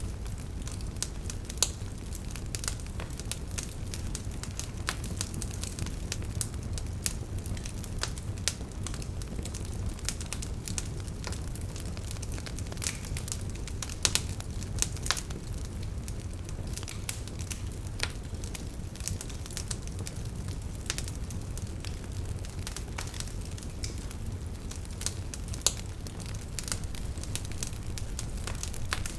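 Log fire crackling: frequent irregular pops and snaps over a steady low rumble of the flames.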